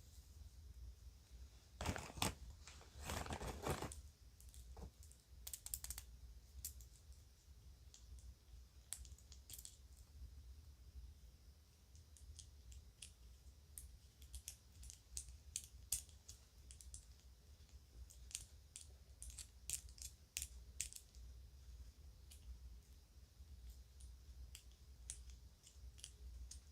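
Faint handling of children's jewelry and a bag: a couple of seconds of rustling near the start, then scattered light clicks and clinks as the pieces are moved, over a faint low hum.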